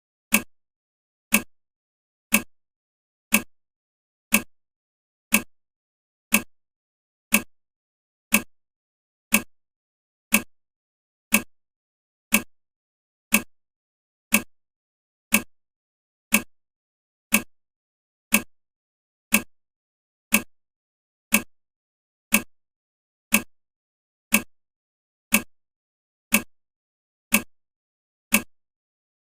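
Clock-tick sound effect of a countdown timer, one short sharp tick every second, evenly spaced.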